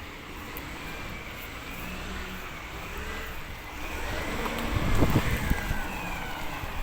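Recycling collection truck's engine running steadily, with a loud burst of knocks about five seconds in.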